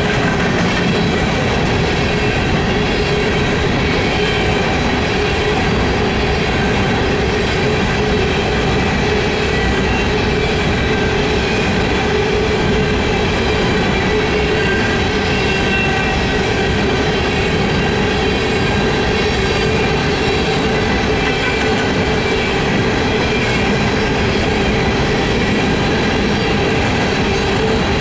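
Coal hopper cars of a long unit freight train rolling past close by: a loud, steady rumble of steel wheels on rail with a continuous whine over it.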